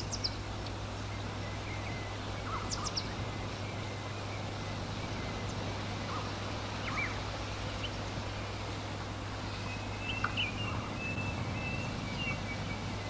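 Outdoor countryside ambience: a steady low background noise with scattered short bird chirps, and a longer warbling bird call about ten seconds in.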